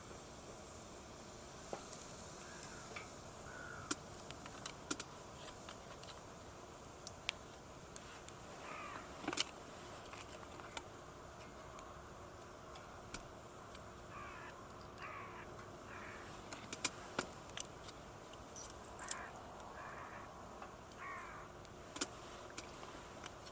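Crows cawing in three short bouts of a few harsh caws each, with scattered sharp clicks and crackles between them.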